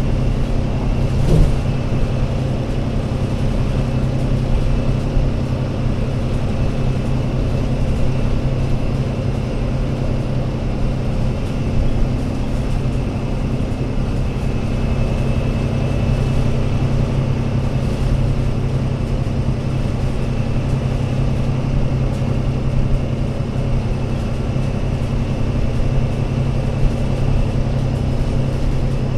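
Diesel engine of an Alexander Dennis Enviro500 MMC Euro 6 double-decker bus running with a steady low drone, with a faint high whine above it and one brief click about a second in.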